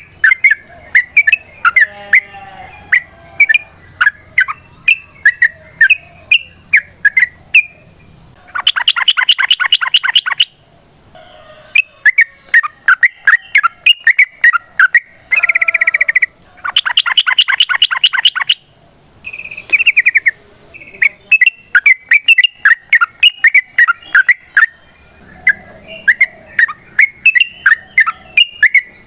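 Yellow-vented bulbul (trucukan) singing a long, busy chattering song of short clear notes. About nine seconds in, and again near seventeen seconds, it breaks into loud rapid trills of a dozen or more quick notes.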